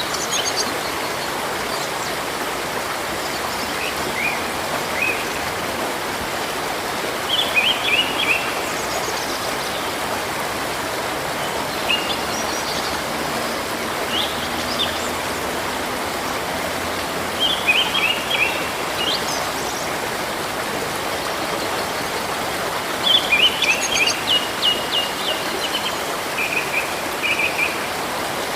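Steady rush of river water with birds chirping over it in short bouts of quick high notes, the busiest bouts about a quarter of the way in, past halfway, and again toward the end.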